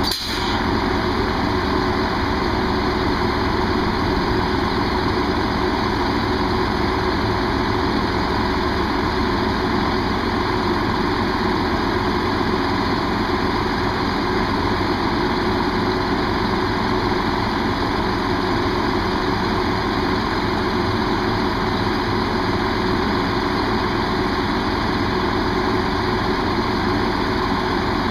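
Diesel train engine idling steadily, a constant hum with a few steady tones.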